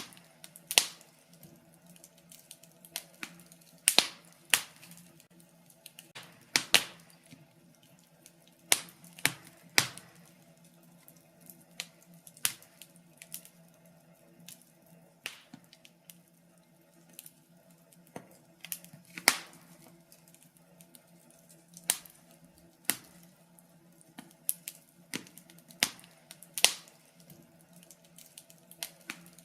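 Wood fire in a fireplace crackling: irregular sharp pops and snaps, several a second at times, over a faint steady hum.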